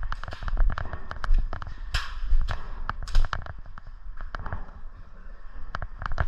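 Scattered airsoft gunshots: sharp, irregular pops, several a second, over a low rumble.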